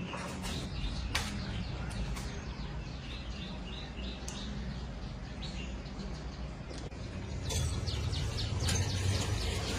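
Small birds chirping in short repeated notes over a steady low rumble, with a run of quick ticks and a louder rumble in the last couple of seconds.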